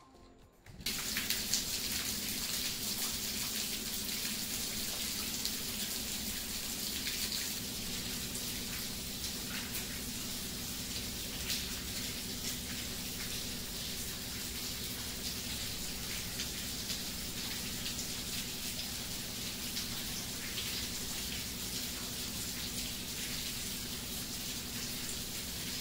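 Steady rain falling, a continuous hiss with many small drips and splashes. It starts about a second in.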